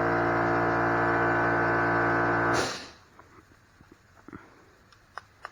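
Small Hitachi air compressor running with a steady hum, then cutting out about two and a half seconds in with a short hiss. Afterwards only a few faint clicks of small parts being handled.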